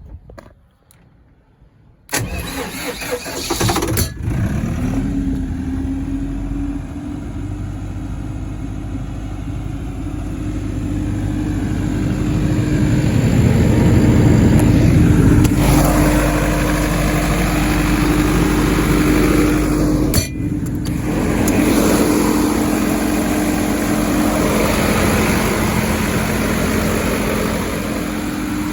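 Deutz BF4M turbocharged four-cylinder diesel engine of a 100 kVA generator set being started: the starter cranks about two seconds in and the engine catches, its pitch rising, then settles into steady running with a held tone. It gets louder in the middle and dips briefly near twenty seconds in.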